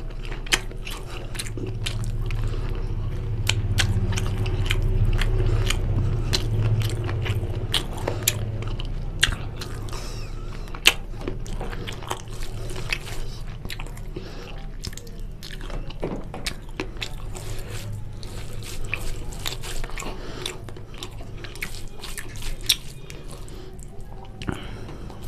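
Close-miked chewing and lip-smacking of a person eating chicken curry with rice, with many sharp wet mouth clicks.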